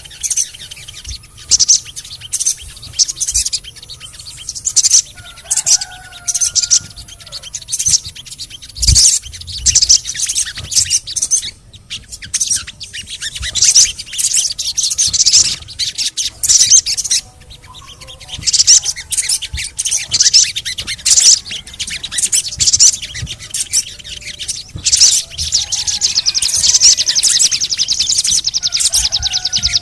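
Sogon songbird singing: a dense run of quick, high chirps and twitters, turning into a fast unbroken trill near the end.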